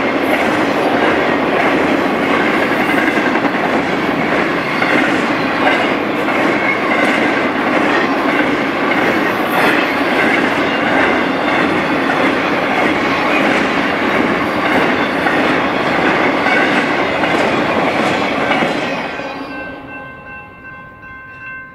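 Intermodal freight cars rolling past at speed, with steady wheel clatter over the rail joints. The noise fades about nineteen seconds in as the end of the train passes, leaving the grade-crossing bell ringing in even strokes.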